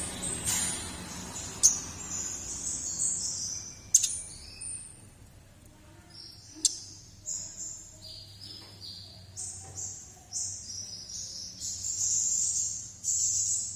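Konin songbird singing a busy run of high, varied chirping phrases, with a few sharp clicks in the first half and a faint low hum underneath.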